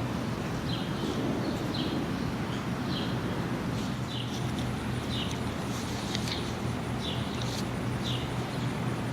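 A steady low rumble of distant jet aircraft, with a bird chirping short notes about once a second over it.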